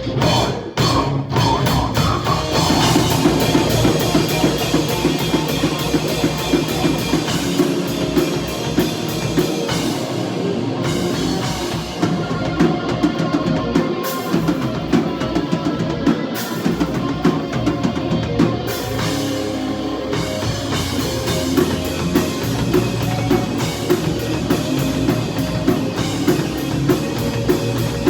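A metalcore band playing live: heavy electric guitars over a drum kit, with stop-start hits in the first second or so and then dense, driving drumming.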